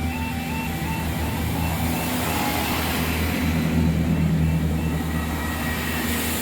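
A Class 165 diesel multiple unit passes over the level crossing, its diesel engines droning low under rising wheel-and-rail noise that is loudest around the middle. The crossing's repeating two-tone yodel alarm sounds through the first few seconds and is then drowned out by the train.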